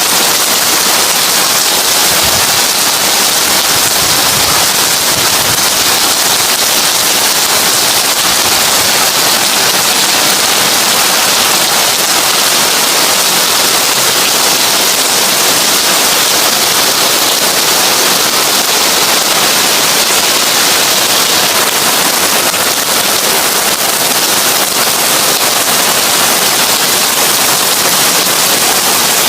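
Heavy rain drumming steadily on a tin roof, a dense hiss of countless drop impacts on the metal.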